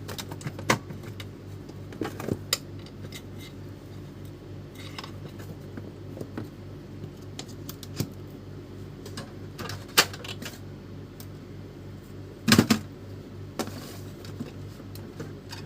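Epson L310 inkjet printer mechanism running a test cycle with a newly fitted drive motor: a steady hum with scattered mechanical clicks and knocks, the loudest a short clatter about three-quarters of the way through. The technician takes the behaviour for a sign that the replacement motor, taken from an L3110, is faulty or does not suit the L310.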